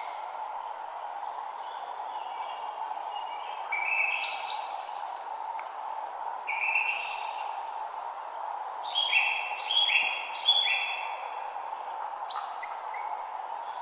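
Songbirds singing in short whistled phrases of quick stepped notes, in clusters every few seconds, over a steady background rush.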